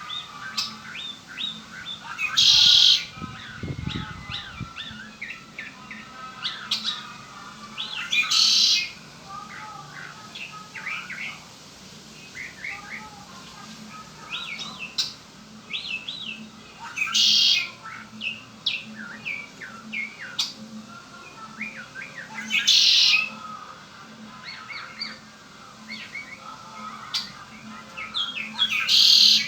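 Red-winged blackbird singing: a harsh buzzing trill about every six seconds, with many short chirps and whistled notes in between.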